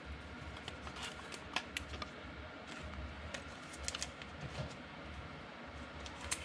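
Faint scattered clicks and light rustles of trading cards being handled and slid apart, over a low steady hum.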